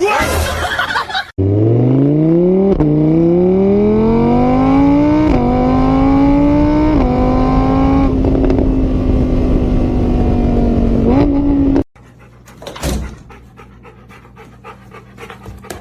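A car engine revving and accelerating, its pitch climbing in several steps over about ten seconds before it cuts off abruptly. It opens with about a second of loud hissing noise.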